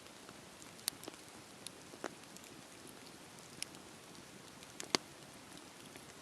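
Wood bonfire burning: a steady soft hiss with scattered sharp crackles and pops, the loudest about a second in and about five seconds in.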